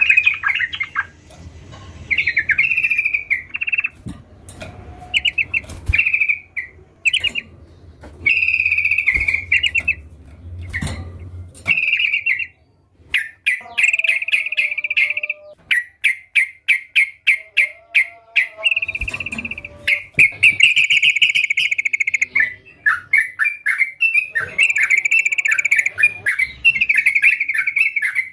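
Yellow-vented bulbul (trucukan) singing: repeated bursts of quick, bubbly chattering phrases with short pauses between them.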